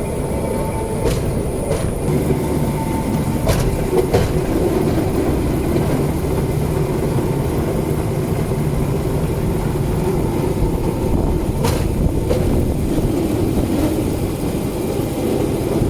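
Steel wheels of a rail bike rolling along a railway track with a steady rumble. Three pairs of sharp clicks come as the wheels cross rail joints: about a second in, at three to four seconds, and near twelve seconds.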